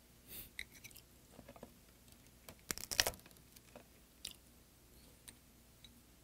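Close-miked chewing of a mouthful of food, with soft wet mouth clicks and a louder cluster of clicks about three seconds in.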